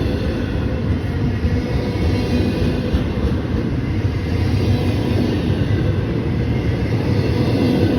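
Train rolling past: a steady low rumble of rail cars on the track, with faint steady tones over it.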